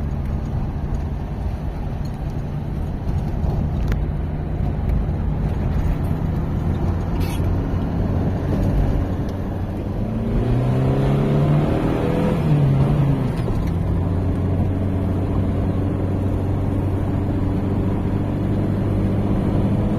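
Motor vehicle engine running steadily while driving, its pitch rising and falling about halfway through, as if revving or changing gear.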